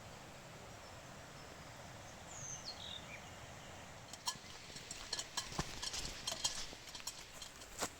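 Footsteps crunching and knocking irregularly on a stony forest track, starting about halfway through, over a steady rush of stream water. Early on a bird gives one downward-gliding whistled call.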